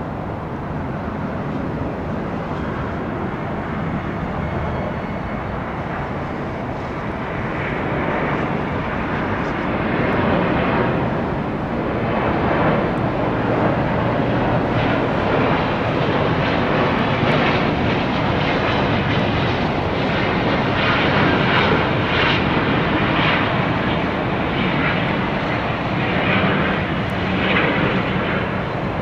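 Airbus A350-900 airliner's Rolls-Royce Trent XWB jet engines running loud, a steady rushing roar that grows slightly louder and takes on a rough, rasping flutter about a third of the way through.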